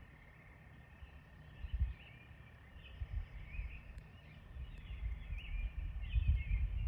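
Small birds chirping and twittering, many short warbling notes, over a low rumble that comes in irregular bursts and grows heavier in the last couple of seconds.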